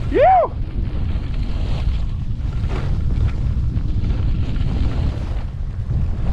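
Wind buffeting the microphone: a steady low rumble. About a quarter second in, a brief pitched sound rises and falls in under half a second.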